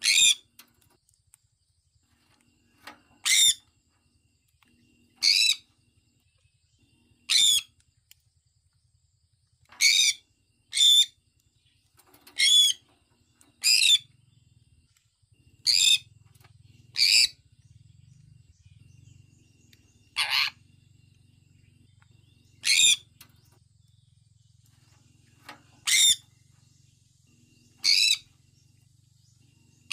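Sun conure giving short, shrill calls, one every one to three seconds, about fourteen in all. A faint low hum comes in about halfway through.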